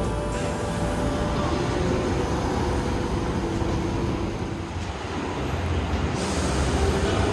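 Steady rumbling vehicle noise with a low hum, growing louder about six seconds in.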